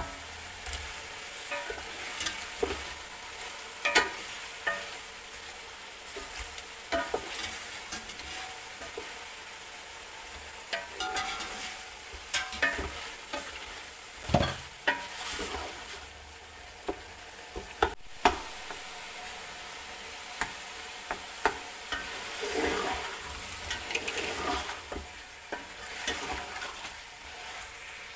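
Food sizzling in a hot pan while being stirred, with a spoon scraping and knocking against the pot at irregular intervals.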